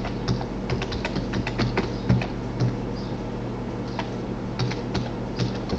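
Typing on a computer keyboard: quick, irregular keystrokes, thickest at the start and again about four seconds in, over a steady low hum.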